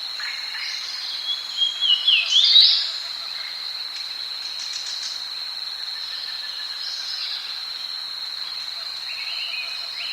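Tropical rainforest ambience: a steady high-pitched insect drone under bird calls. The calls are loudest between about one and three seconds in and come back faintly near the end.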